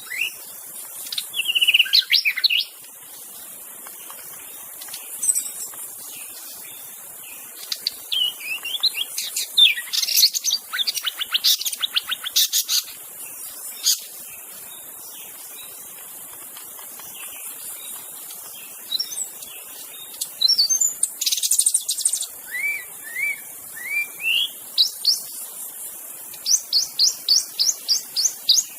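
White-rumped shama (murai batu) singing: varied whistled phrases with pauses between them, closing with a fast run of repeated notes near the end.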